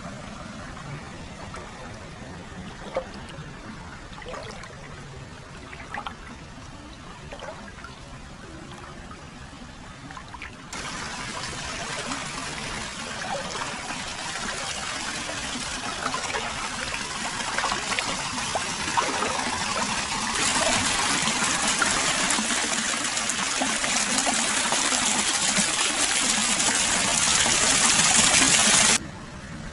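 Hot spring water flowing and trickling into a foot bath pool. The sound jumps abruptly to a louder, fuller pour about 11 s in and again about 20 s in, then drops suddenly back to a quieter trickle just before the end.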